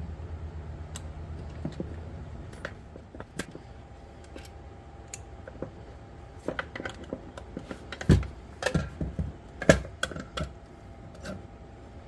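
Scattered small clicks and clinks of metal hand tools and spring-scale parts being handled during disassembly, with a run of louder knocks about eight to ten seconds in.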